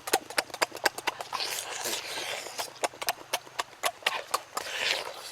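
Chewing and lip-smacking while eating: rapid, irregular wet clicks with short bursts of crunching.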